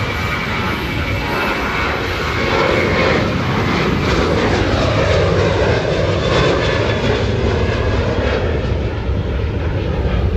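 Boeing 737-700 airliner's CFM56-7B turbofan engines running as the jet passes, growing louder to a peak around the middle and easing off, with a high whine in the first few seconds.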